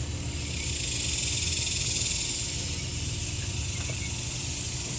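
Steady outdoor ambience: a high, even insect buzz over a low steady rumble, with no distinct events.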